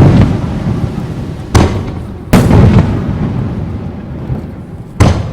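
Aerial firework shells bursting overhead: four loud booms, one as it opens and others about one and a half, two and a half and five seconds in, each trailing off in a long rolling rumble.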